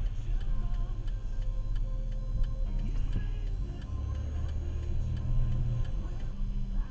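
Car turn-signal indicator ticking regularly inside the cabin, over the steady low rumble of the engine and road.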